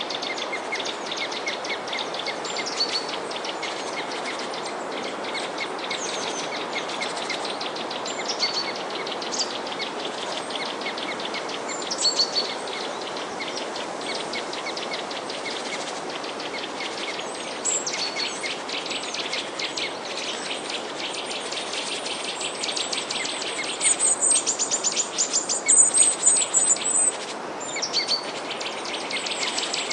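Small songbirds chirping in short high calls over a dense, fast insect trill like crickets, with a steady background hiss. The chirping grows busier and louder for a few seconds near the end.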